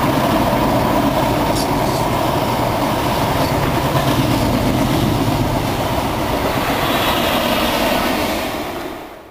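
Mark 3 passenger coaches of a locomotive-hauled intercity train running past at speed: a loud, steady rush and rumble of wheels on rail. It eases off near the end and cuts off sharply.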